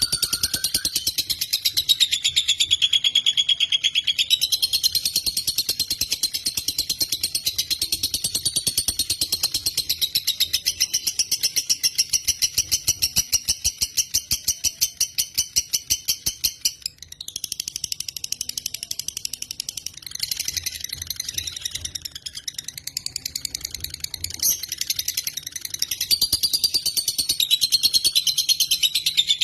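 Lovebird singing a long, rapid trill of fast repeated chattering notes, high-pitched and unbroken except for a short break about 17 seconds in, after which it resumes.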